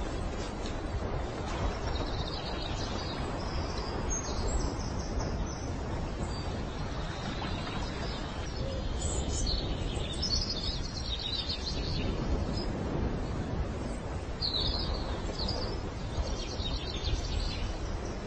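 Short, high bird chirps and twittering calls, coming in scattered clusters over a steady low background rush of outdoor noise.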